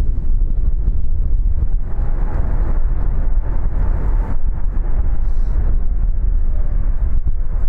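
Wind buffeting the microphone, with the jet engine noise of an arriving Airbus A321neo airliner underneath; the engine sound swells about two seconds in and drops away abruptly just after four seconds.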